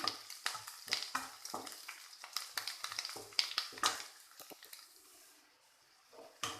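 Sliced onion frying in hot oil in a pan, stirred with a spatula: irregular sizzling crackles and scrapes as the onion browns. The sound dies away about five seconds in, and a single sharp knock comes near the end.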